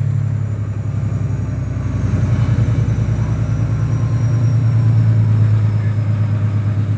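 Steady low drone of a passenger train in motion, heard from inside the carriage, growing a little louder from about two seconds in.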